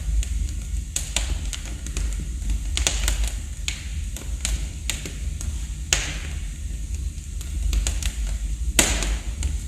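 Wood fire burning in a fireplace: logs crackling and popping at irregular intervals over a steady low rumble, with a few louder snaps about six and nine seconds in.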